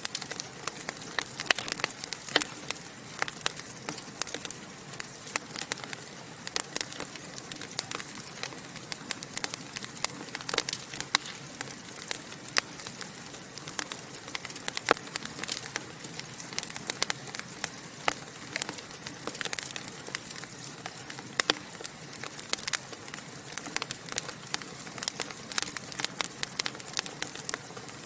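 Wood fire in a fireplace crackling and popping, with many sharp irregular pops over a soft steady hiss.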